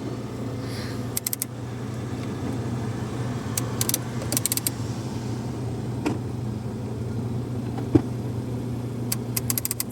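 Ford Fiesta Mk7 running with the heater on, giving a steady low hum, with a few short runs of rapid small clicks and a couple of single knocks.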